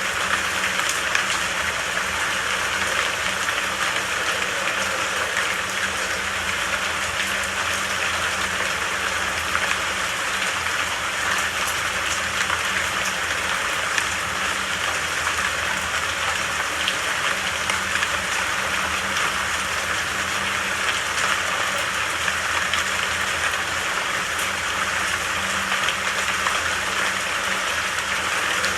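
Rain falling in a steady, even hiss, with no breaks or changes.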